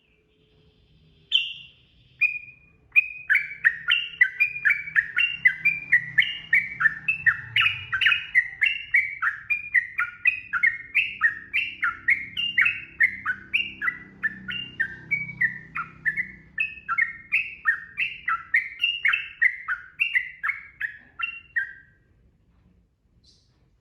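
Yellow-vented bulbul (trucukan) singing a long, fast run of bubbly, downward-sliding notes, about three or four a second and alternating high and low. A couple of lone notes come first, and the run stops shortly before the end.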